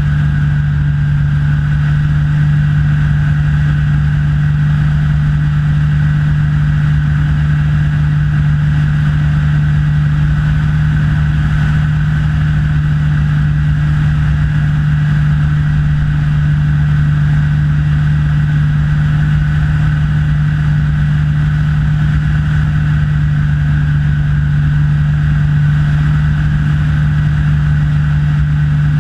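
Engine and propeller of a Rans S6 light aircraft in flight, a loud, steady drone with a strong low hum that holds at the same pitch throughout.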